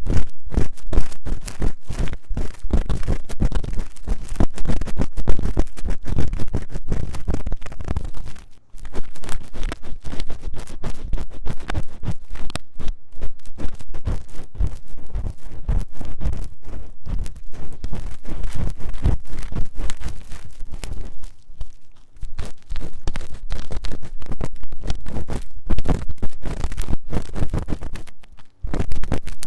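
Ear-cleaning scratching on the ear of a 3Dio binaural microphone: fast, rough, loud scratching strokes in a dense stream, broken by short pauses about 8 seconds in, near the middle and near the end.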